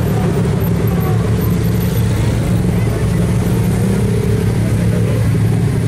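Bugatti Veyron's W16 engine idling steadily at close range.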